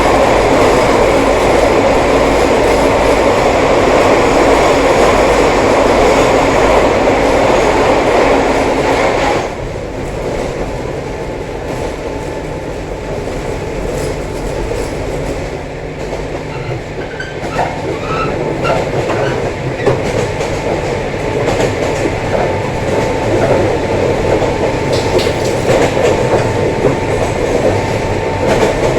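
JR 103 series 1500-subseries electric train running on a run marked by repeated wheel slip on wet rails and an unusual noise. A loud running noise cuts off suddenly about nine and a half seconds in, giving way to quieter running with clicks of the wheels over rail joints.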